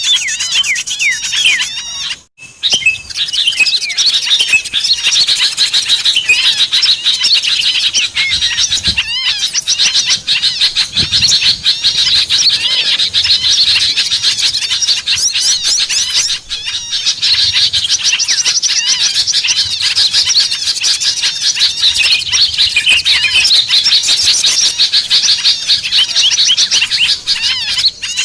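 A dense chorus of many small songbirds chirping and trilling rapidly over one another, a bird-lure recording played to draw in wild small birds. The chatter breaks off briefly about two seconds in and again about halfway through, then resumes.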